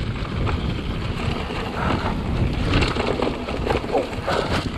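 Strong wind buffeting the camera microphone with a steady low rumble while a mountain bike rides over the trail. Short clicks and rattles from the bike come in from about two seconds in.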